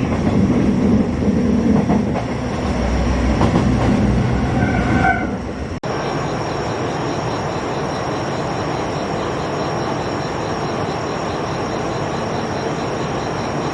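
Train running on the rails, with brief wheel squeal in the first few seconds, then a steady rumble of the train running.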